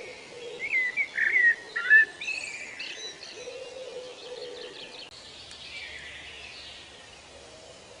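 Birds singing over a steady outdoor background: a run of quick, loud slurred whistled notes about half a second to two seconds in, followed by softer chirps.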